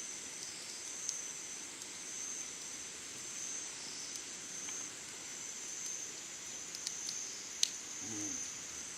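Summer insects chirring in a steady, high-pitched drone, with a few sharp clicks, one louder near the end.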